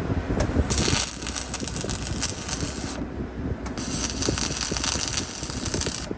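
Welding arc crackling in two runs of about two seconds each, with a short pause between them, over a steady low rumble.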